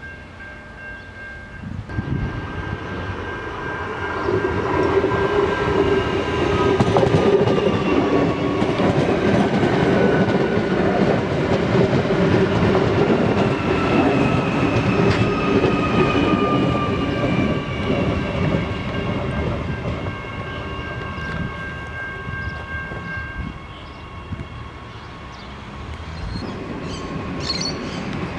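Adelaide Metro 4000-class electric multiple unit passing close by: rumble of wheels on the rails, and a whine from its traction equipment that falls in pitch as it goes by. A steady high tone, the level crossing's warning bell, sounds until near the end, when the train has passed.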